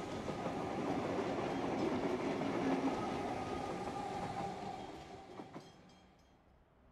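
Electric suburban train running past, a steady rumble with a faint hum, fading away from about four and a half seconds in as the last car clears.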